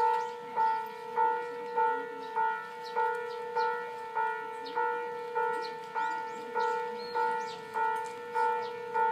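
Railway level crossing warning bell ringing, a two-tone clang repeating steadily about every 0.6 seconds, the signal that a train is approaching. Faint chirping of birds or insects sits behind it.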